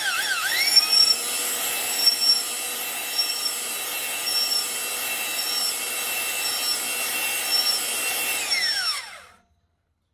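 Engine-machining tool spinning up, cutting steadily with a rubbing sound and a faint tick about once a second, then winding down and stopping about nine seconds in.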